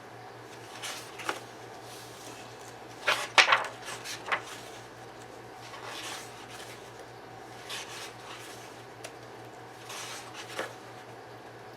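Paper pages of a coloring book being turned and handled: a series of short rustles and flaps, the loudest cluster about three seconds in.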